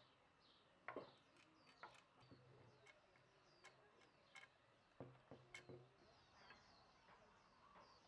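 Near silence, with faint bird chirps and a few light clicks and knocks scattered through it.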